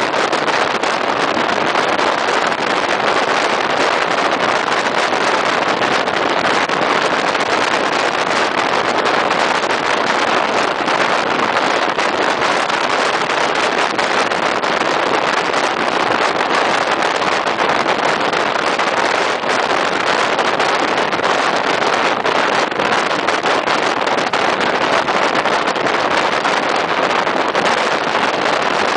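Steady rush of wind buffeting the microphone, mixed with the running noise of a regional passenger train moving at speed, heard from an open carriage window.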